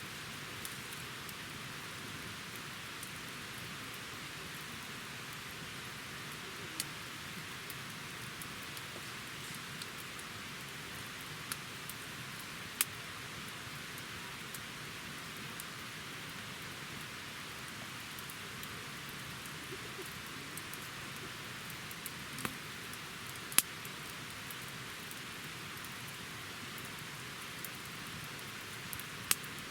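Wood campfire burning with a steady crackling hiss and a few scattered sharp pops, several seconds apart.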